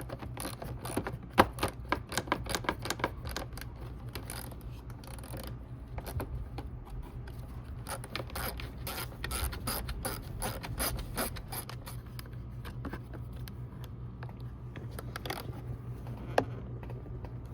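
Ratchet wrench clicking in long runs of rapid strokes as the seat bolts are worked loose, thinning to a few clicks near the end.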